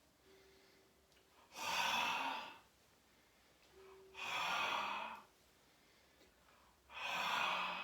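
A man making three long, breathy, whispered out-breaths about two and a half seconds apart, each lasting about a second: the heart sound of the QiGong six healing sounds, repeated three times.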